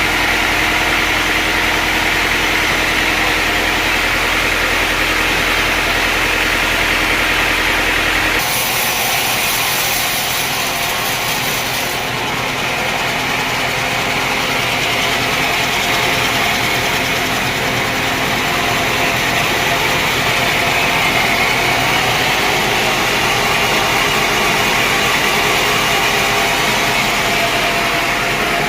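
Sawmill machinery running steadily with a loud mechanical drone. About eight seconds in, the low hum drops away suddenly and a high hiss comes in for a few seconds before the steady running goes on.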